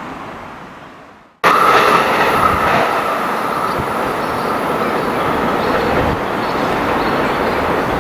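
Train running on the rails, a dense rumble with wheel-on-rail noise and a steady high whine. It starts abruptly about a second and a half in, after the earlier sound fades away; the whine drops out around five seconds in.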